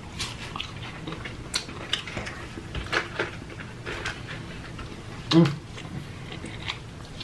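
Close-miked eating: wet chewing and lip-smacking clicks, with a short voiced "mm" about five seconds in.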